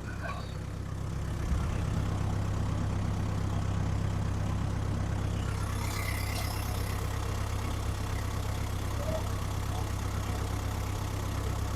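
Tractor engine idling steadily, a low even hum that grows slightly louder in the first couple of seconds.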